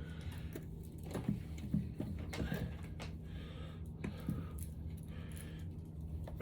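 Scattered light clicks and clinks of metal engine parts and tools being handled, over a steady low hum.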